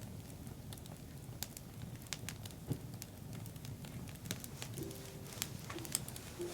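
Wood campfire burning, crackling with many irregular sharp pops over a low steady rush of flame. Near the end a low, steady-pitched call starts, broken into short repeated notes.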